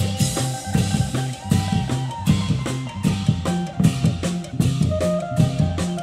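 Isan procession drum band playing: a drum kit keeps a quick, steady beat of bass drum and snare strokes under a walking bass line and a higher sustained melody.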